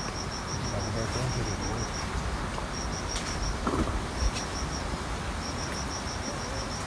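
Insects chirping: a high, rapid pulsing call that comes in repeated runs, over a steady background hiss, with a few faint clicks.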